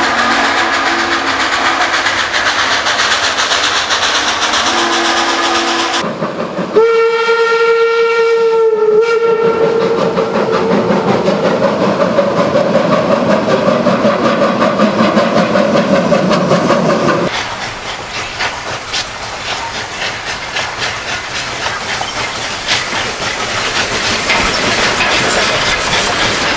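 Recorded real-train sound: a train running on the rails, with one whistle blast of about two seconds starting about 7 s in. Then comes a rumbling passage, and after a sudden change about 17 s in, wheels clicking over rail joints.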